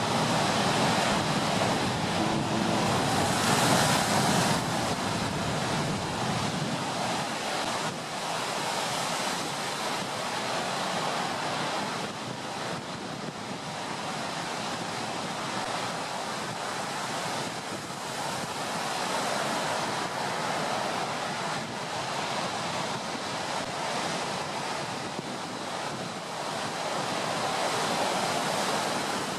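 Stormy sea: waves breaking and wind blowing in a continuous rush that swells and eases in slow surges, loudest about four seconds in.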